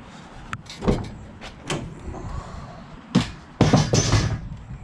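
A van door being worked: a few sharp clicks and clunks, then a louder clunk and a longer rattling, scraping noise as the door is pulled open, about three and a half seconds in.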